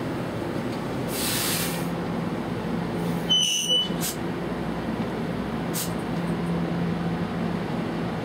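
NJ Transit bilevel commuter train coming to a stop at the platform. There is a hiss of air about a second in and a short high squeal as it halts, then the steady hum of the standing coaches with a couple of sharp clicks.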